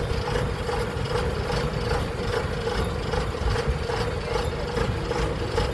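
Combine harvester engine running steadily with a constant whine, and faint regular ticking about three times a second from the running machinery.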